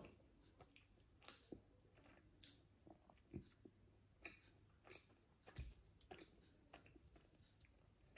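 Faint chewing with the mouth closed: soft, irregular clicks and small crunches.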